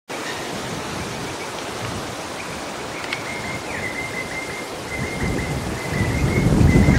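Outdoor wetland ambience. A steady hiss is joined by low wind rumble on the microphone that grows stronger about five seconds in. Over it runs a thin, high, rapidly repeated trill.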